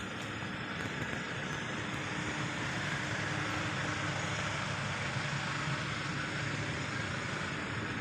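A steady engine drone with a low hum, growing slightly louder partway through.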